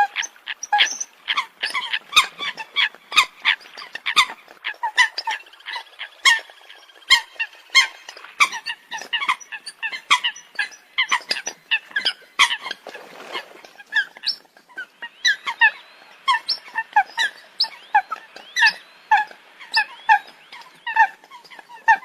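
Eurasian coot calls: short, sharp honking notes in a rapid, uneven series, several a second, with no pause.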